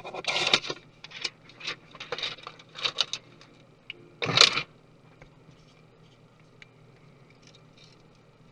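Clicks, taps and short scrapes of small tools and laptop parts being handled, ending about four and a half seconds in with a longer scrape; after that only faint occasional ticks.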